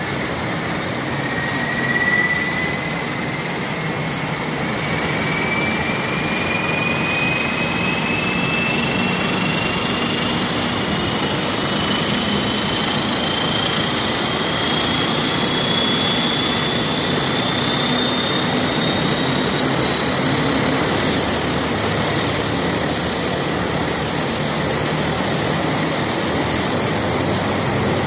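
Aircraft engines running loud and steady, with a high whine that climbs slowly in pitch.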